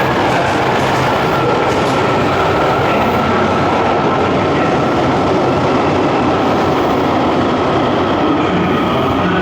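Subway train running through an underground station platform, with steady loud rolling noise and wheels clattering on the rails.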